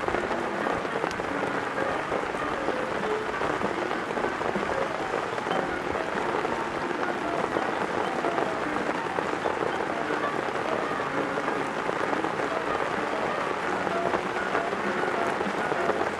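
Heavy rain falling steadily, a dense, even patter that drowns out the jazz playing faintly from a small portable speaker.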